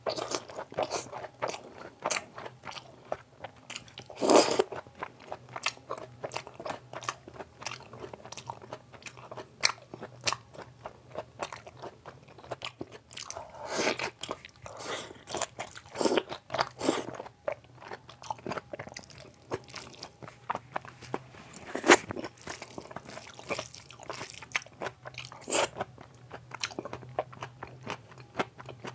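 Close-miked chewing and mouth sounds of a person eating rice and curry by hand: a steady run of wet smacks and crunches, with a few louder bites scattered through.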